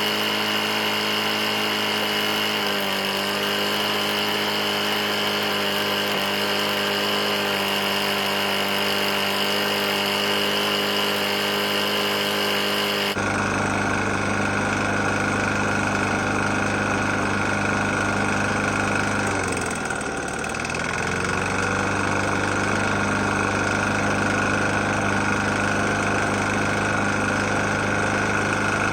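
Briggs & Stratton engine on a Murray mower running steadily, an engine that knocks badly. Its tone changes abruptly about halfway through, and about two-thirds of the way in the engine speed dips briefly and then recovers.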